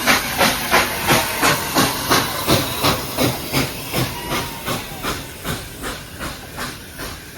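Steam locomotive exhaust beats, a steady chuff about three times a second with a hiss of steam, getting gradually fainter.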